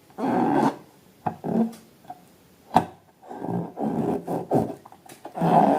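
Rubber balloons being rubbed and squeezed by hand in irregular rough strokes, with a sharp click a little before the middle.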